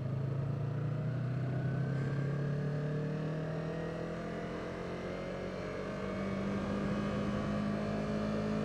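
Yamaha YZF-R3's parallel-twin engine running under way, its pitch rising slowly and steadily throughout.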